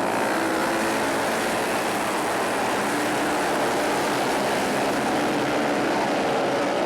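Flat-track racing motorcycles running hard in a pack on a dirt oval, a dense, steady engine noise with no let-up.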